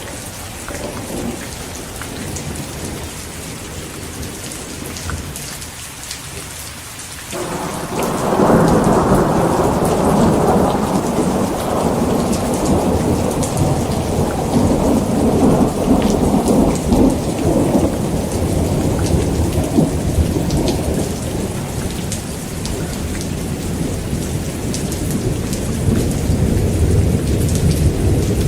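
Heavy rain falling steadily, with a rolling thunder rumble that breaks in suddenly about seven seconds in and goes on rumbling through most of the rest.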